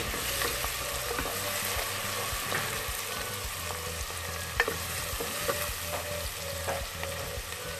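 Chopped onion and ginger-garlic paste sizzling in hot oil in a non-stick pot while a wooden spoon stirs them, with a few light knocks of the spoon against the pot, the sharpest about four and a half seconds in.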